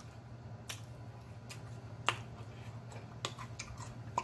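Close-miked mouth sounds of chewing: scattered sharp wet clicks and smacks, one or two a second, over a low steady hum.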